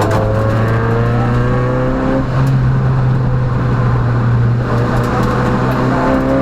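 Peugeot rally car's engine under hard acceleration, heard from inside the cabin. The pitch climbs, drops at a gear change a little over two seconds in, then climbs again near the end.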